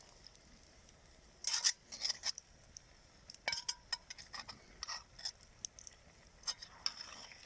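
A utensil stirring stewing food in a kazan cauldron, clinking and scraping irregularly against the pot, the loudest scrape a little over a second and a half in.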